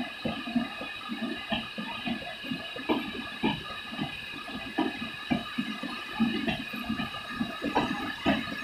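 Passenger train's LHB coaches rolling past on wet track in heavy rain: irregular wheel knocks and clatter over the rails, under a steady high whine and the wash of rain.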